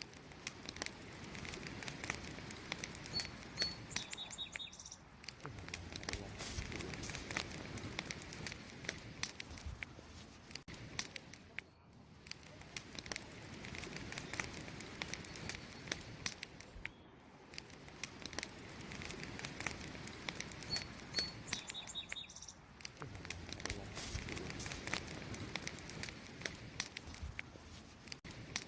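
Wood campfire crackling, with many sharp irregular pops over a soft rush of burning, the crackle swelling and easing every few seconds. Twice, a brief high chirp sounds above the fire.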